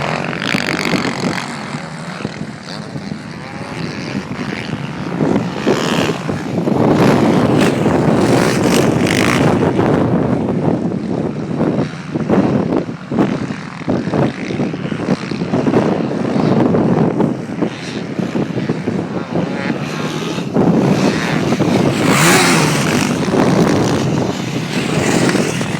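Motocross bike engine running, its loudness swelling and dipping every few seconds.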